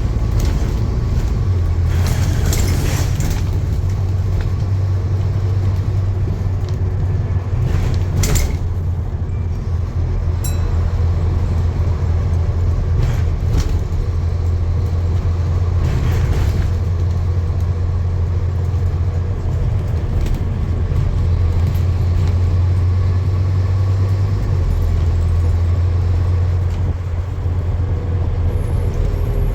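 Steady low rumble of a running motor vehicle, with a few brief hissing noises over it.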